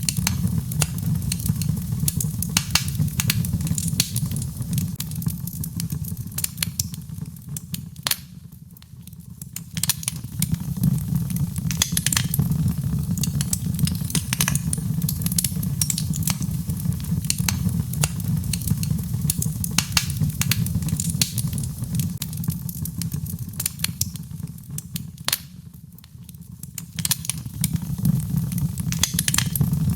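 Birchwood fire burning in a fireplace: a constant scatter of sharp crackles and pops over a steady low rumble of flame. The sound eases off briefly twice, about eight seconds in and again past twenty-five seconds, then comes back up.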